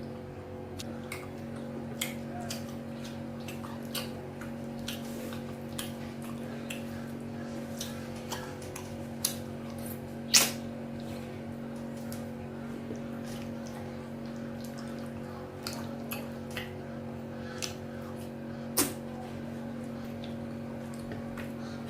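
Close-up wet eating sounds: irregular small clicks and squelches of chewing and swallowing soft amala with slimy ewedu and egusi soup, with a sharper click about ten seconds in. A steady low hum runs underneath.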